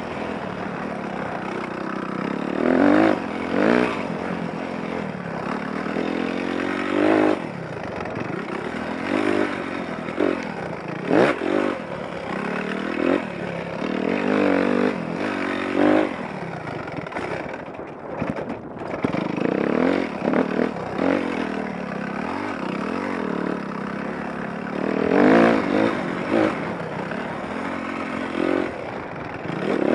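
Motocross dirt bike engine revving up and dropping back again and again as it is ridden around the track. It goes briefly quieter about eighteen seconds in.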